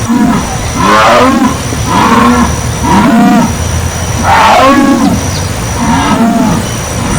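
Jaguar calling: a series of grunting roars, about one a second.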